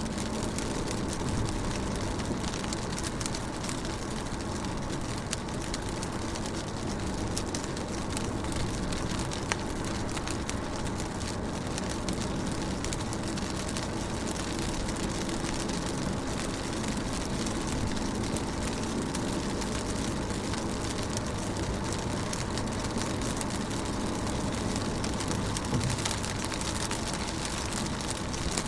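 Rain falling on a car's window and body, heard from inside the car: a steady hiss of drops thick with small ticks, over a low steady rumble.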